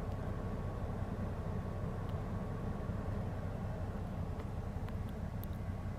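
Steady low background hum with a faint thin tone above it, and a few light clicks near the end.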